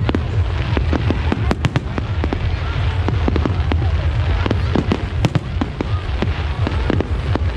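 Fireworks display going off: a dense run of sharp bangs and crackles over a continuous low rumble of bursting shells.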